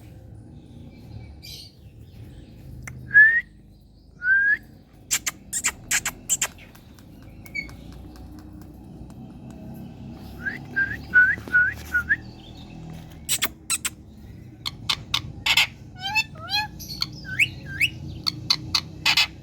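Rose-ringed parakeet (Indian green parrot) calling. It gives short rising whistles, one or two at a time and then in quick runs of four or five, mixed with sharp, harsh squawks.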